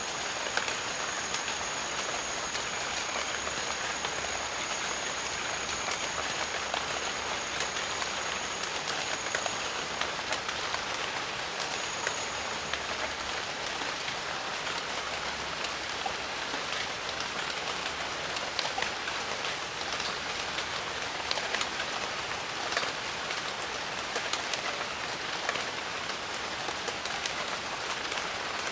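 Steady jungle rain: an even hiss with many separate drops ticking close by. A thin, high, steady whine runs for the first ten seconds or so and comes back briefly near twelve seconds.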